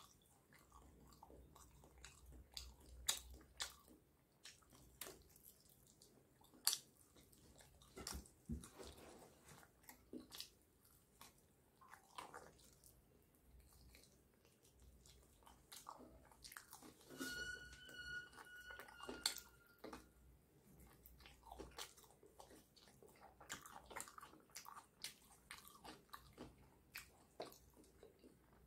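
Close-up chewing and biting of fried chicken legs, meat pulled off the bone with the teeth, faint, with scattered sharp clicks and smacks. About seventeen seconds in, a steady high tone with overtones sounds for about three seconds.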